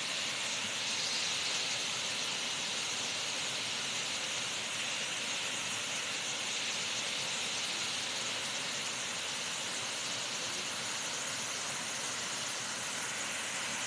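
Waterfall rushing, a steady, even hiss of falling water.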